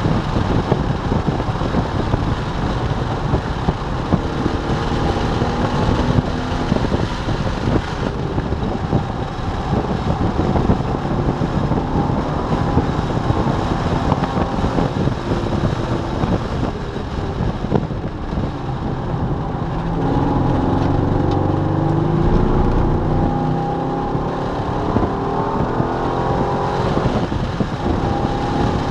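C5 Corvette Z06's LS6 V8 heard from inside the cabin at speed, its pitch climbing under acceleration and dropping back again and again. Underneath runs a constant rush of tyre and wind noise. The engine is loudest and deepest about twenty seconds in.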